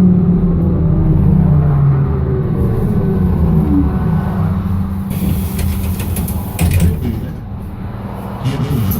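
BKM-221 trolleybus running with a steady low hum and a whine that falls in pitch as it slows. From about halfway on there are sharp clicks and knocks.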